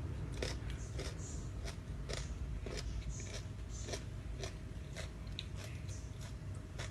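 A person chewing crunchy food close to the microphone: crisp crunches come about twice a second in a steady rhythm. The food is a spicy dry rice-noodle salad with crispy squid.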